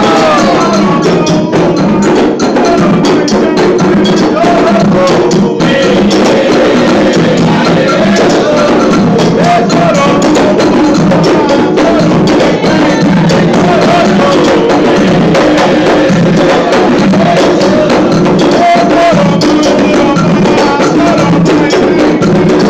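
Candomblé ritual music: loud, continuous hand drumming and percussion with a steady beat, with voices chanting over it.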